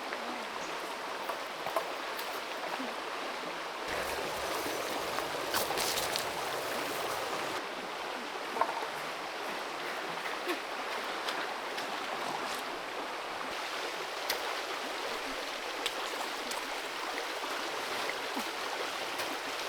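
Creek water flowing steadily, with a few small sharp clicks over it.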